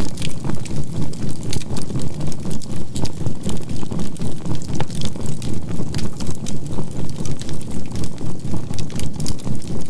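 Burning charcoal crackling with frequent sharp pops over a low rumble, mixed with a steady 528 Hz tone and a binaural-beat track. The overall loudness pulses evenly, about three to four times a second.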